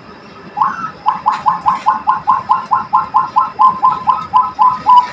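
Female cage dove cooing: a fast, even run of about twenty short coos, some four or five a second, starting about half a second in. It is held up as the kind of female voice fit for a breeding hen.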